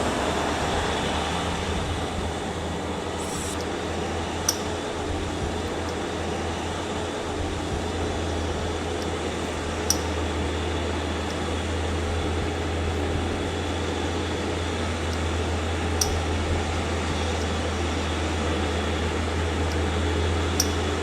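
Steady low mechanical hum with a faint hiss over it, and a few faint sharp ticks several seconds apart.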